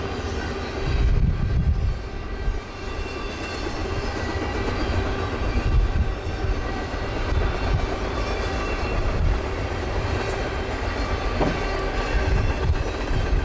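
Train cars rolling past on the rails: a steady low rumble with a thin ringing of several held tones above it, swelling louder about a second in.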